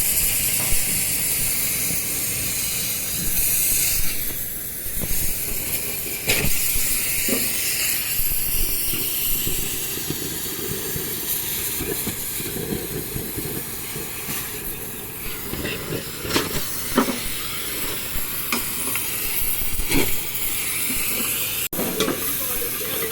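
Steady hiss in a scrap-metal workshop, with scattered sharp knocks through it.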